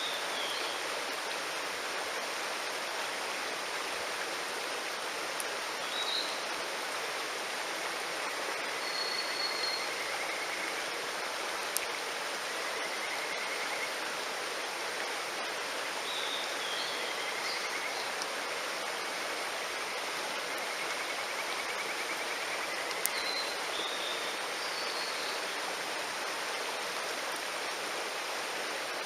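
Mountain stream rushing steadily, with kajika frogs (Buergeria buergeri) giving several pulsed, slightly rising trills a second or two long. Small birds chirp briefly now and then, and two sharp clicks stand out, about twelve and twenty-three seconds in.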